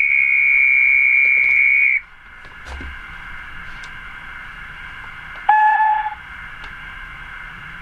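Model steam locomotive whistle sounding twice: a long, high, steady blast for about two seconds, then a short, lower blast about five and a half seconds in, over a steady hiss.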